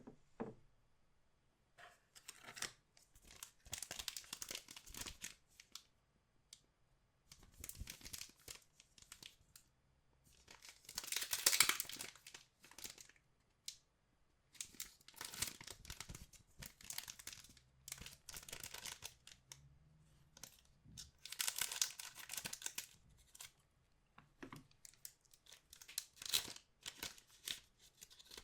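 Plastic wrapping of trading card packaging being torn open and crinkled by hand, in repeated bursts of a second or two with two louder, longer tears.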